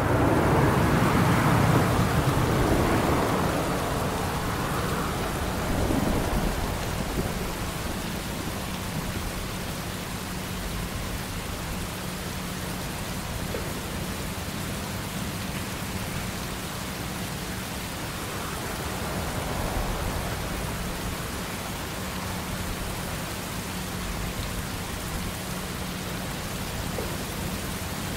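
Jet airliner engines loudest in the first few seconds, pitch falling as the aircraft passes, then settling into a steady, even engine noise with a low hum.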